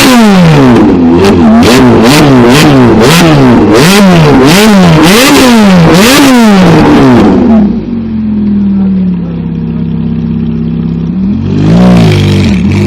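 Ferrari F430's 4.3-litre V8 through a Capristo exhaust, revved hard in a quick series of about a dozen blips, each rising and falling in pitch. It then drops to a steady idle, with one more rev near the end.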